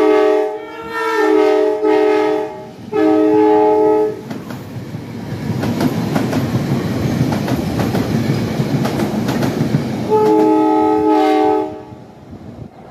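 Multi-chime train horn sounding a chord in several blasts, three in quick succession, then a train passing with its wheels clattering over the rail joints for about six seconds, and one more horn blast near the end.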